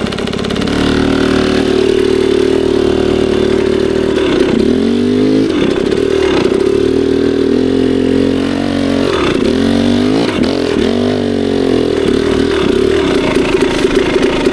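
KTM 300 two-stroke dirt bike engine running on the throttle, its pitch dropping and climbing back several times, about a third of the way in and again in the middle, as the throttle is rolled off and back on.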